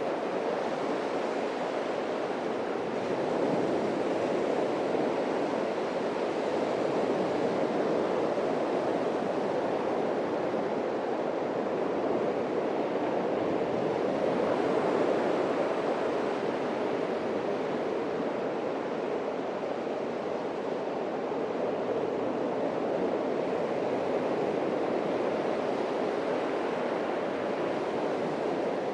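Atlantic surf breaking and washing up a beach: a steady rushing wash that swells and eases slowly.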